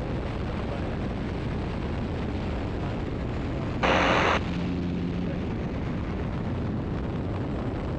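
Steady engine and wind noise in the open cockpit of a Great Lakes biplane flying an aileron roll, with a brief, louder hiss lasting about half a second roughly four seconds in.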